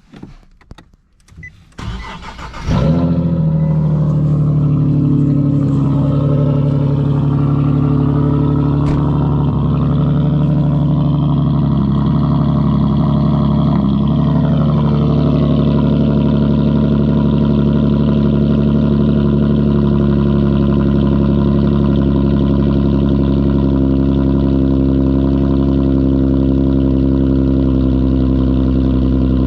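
Nissan 370Z's 3.7-litre V6 cold-started through a loud aftermarket exhaust: a brief crank, then it catches about three seconds in and runs at a fast cold idle. The idle wavers and then settles to a steady note about halfway through.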